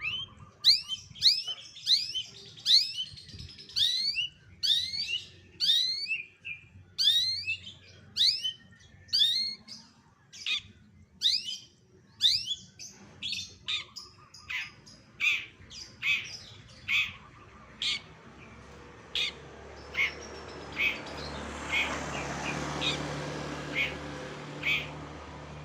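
Long-tailed shrike (cendet) singing a string of borrowed calls: quick, sharply sweeping whistled notes repeated one to two a second, changing about ten seconds in to short, clipped chips about once a second. A faint hiss grows behind the notes near the end.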